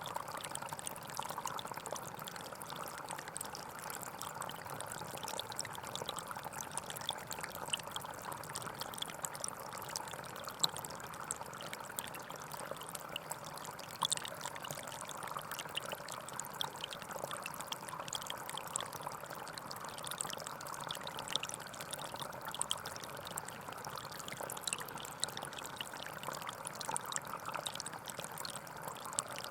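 Gentle forest stream flowing steadily, a constant babble of trickling water with tiny splashes throughout.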